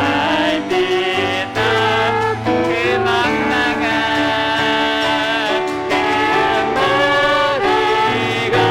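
Contemporary worship song performed live: vocalists singing a held melody over piano accompaniment.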